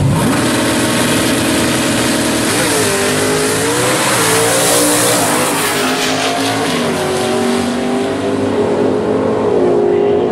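1969 Camaro drag car's engine at full throttle on a quarter-mile launch, its pitch jumping up at the start, then climbing and dropping back several times through the gear changes as the car pulls away.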